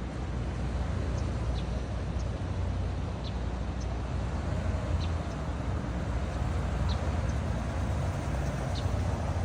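Rezvani Vengeance's 6.2-litre V8 running with a steady low rumble, mixed with vehicle noise. A few faint, short high chirps sound every second or so.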